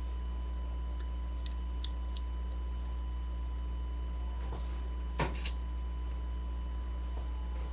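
Steady low electrical hum with a thin steady whine, typical of a webcam recording's mains hum, with a few light clicks and two sharper clicks in quick succession about five seconds in.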